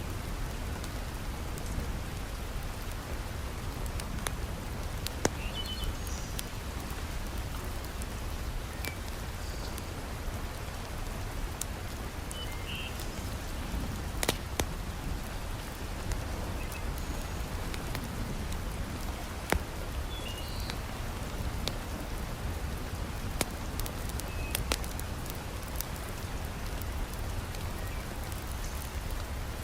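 Heavy rain falling steadily, with a low rumble under the hiss, and a wood fire in a fireplace giving scattered sharp crackles and pops at irregular moments.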